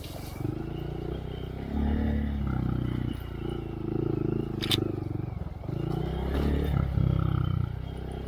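Honda Monkey's single-cylinder engine through a Yoshimura RS3 exhaust, revving up and down repeatedly as the bike is ridden over a rough trail. A sharp click or knock is heard about halfway through.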